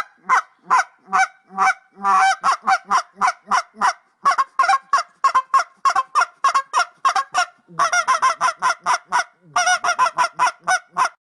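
A large bird giving a long run of short, loud, pitched calls, about three to four a second, in several bouts with brief breaks, stopping just before the end.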